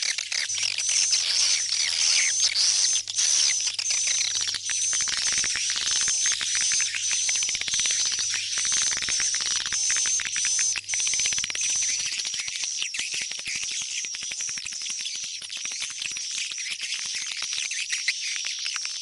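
Swiftlets chirping and twittering densely and without pause, a swiftlet-house lure call.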